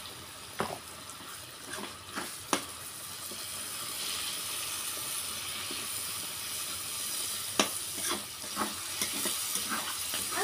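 Spice masala with tomato and ginger-garlic paste frying in hot oil in a pan: a steady sizzle that grows louder about four seconds in, while it is stirred. A cooking spoon knocks and scrapes against the pan now and then, more often near the end.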